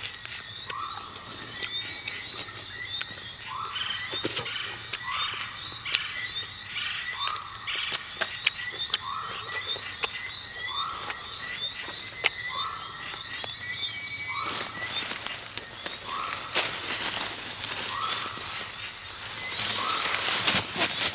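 An animal calling over and over, a short rising note about once a second, with fainter high chirps among the calls. About two-thirds of the way in, a broad rushing noise sets in and carries on through the end.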